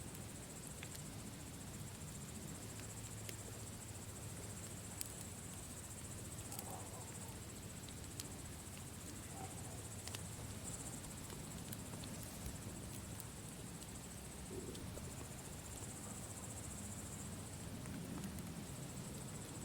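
Campfire crackling with scattered sharp pops, over a steady high chirping of crickets.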